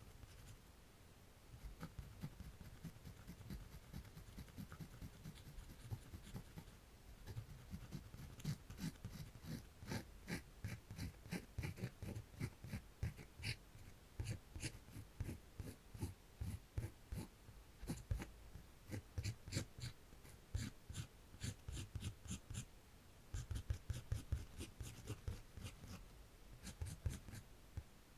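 Quiet drawing on paper: many short, quick scratching strokes that grow denser a few seconds in.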